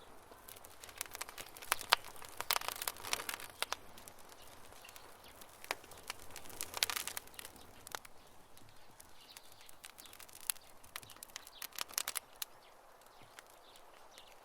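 Wood campfire crackling: irregular snaps and pops over a soft hiss, with denser runs of crackle about two, seven and twelve seconds in.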